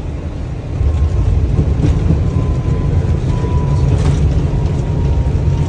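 Airbus A321 landing rollout heard in the cockpit: a loud, steady low rumble of the engines and wheels on the runway. It grows louder about a second in, and a faint steady high tone runs under it.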